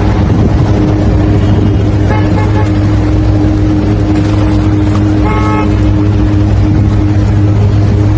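A vehicle engine running steadily with a loud low hum, with a horn tooting briefly twice, about two seconds in and again about five seconds in.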